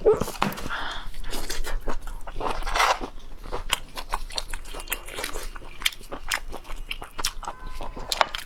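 Close-up eating sounds: a person biting and chewing crunchy food, with many sharp crackly clicks and a couple of longer noisy mouth sounds near the start and about a third of the way in.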